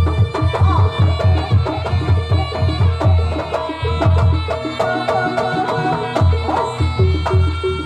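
Live Javanese jaranan music: hand drums beating a quick, busy rhythm under pitched instruments that hold and repeat a melody.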